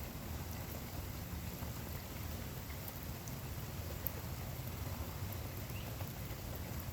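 Steady rainfall: an even wash of noise with scattered faint drop ticks, one sharper tick about four seconds in.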